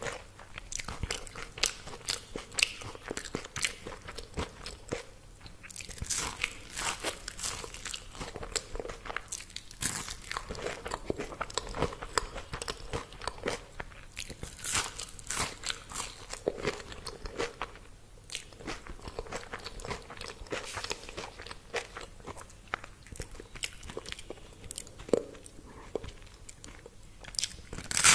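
A person biting and chewing crunchy fried food, with irregular crisp crunches throughout and a few louder ones near the end.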